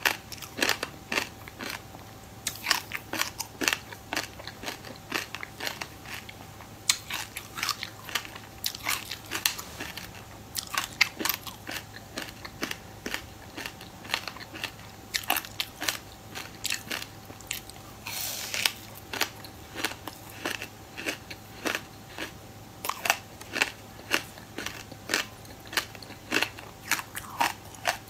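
Biting and chewing through frozen clumps of buckwheat and sesame seeds: an irregular run of sharp crunches and crackles, with a longer, denser crunch about eighteen seconds in.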